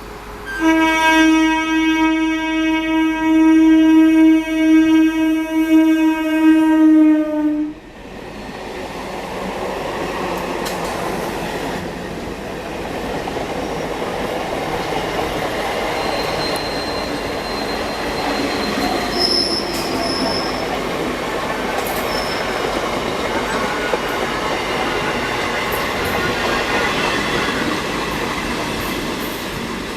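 An EMU local train sounding one long horn blast of about seven seconds, then the train running past with steady wheel-on-rail noise, clattering over rail joints and giving a few brief high wheel squeals.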